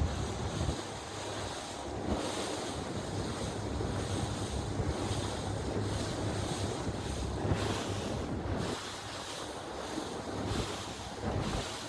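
Small motorboat under way at sea: wind buffeting the microphone over water rushing past the hull and the low, steady hum of the engine, easing briefly a little after the middle.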